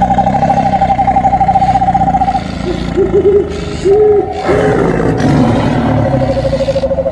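Tiger growling and roaring, with a high warbling tone held over it and a few short rising-and-falling calls about three to four seconds in.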